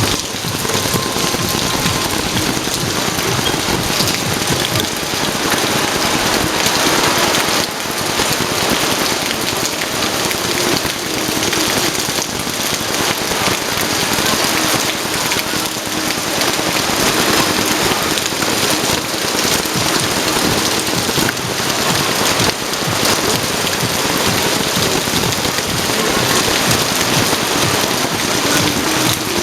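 Heavy typhoon rain pouring down in a loud, steady, dense hiss.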